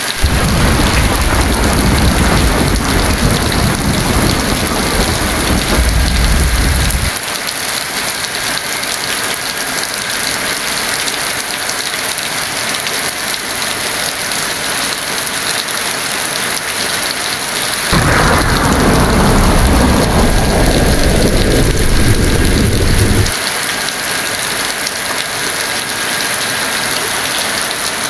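Heavy rain falling steadily, with two rolls of thunder. The first rumbles from the start for about seven seconds. The second begins about 18 seconds in with a crack that falls away into a rumble lasting about five seconds. Both stop abruptly.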